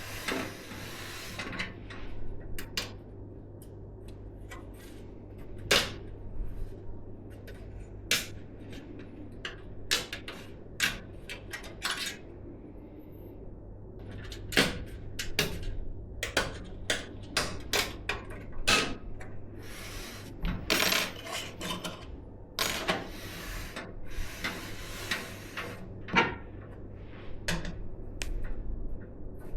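Hands working on PC parts: irregular clicks, taps and knocks of plastic and metal parts, with a few bursts of rustling, over a steady low hum.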